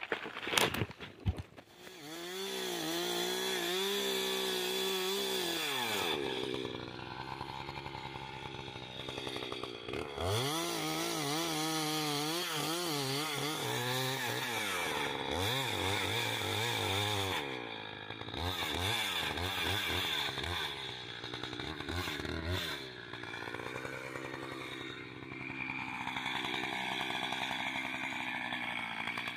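Chainsaw revving up and holding at high speed for a few seconds, dropping back, then revving again in several shorter spells.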